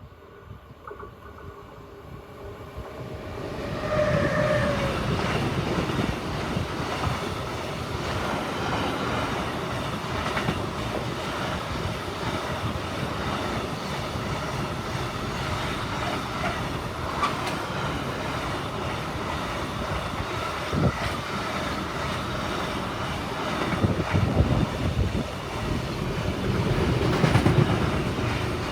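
Siemens Vectron electric locomotive hauling a container freight train past, approaching over the first few seconds and loud by about four seconds in. The wagons then roll by with a steady rumble and clickety-clack of wheels over rail joints, swelling again near the end before beginning to fade.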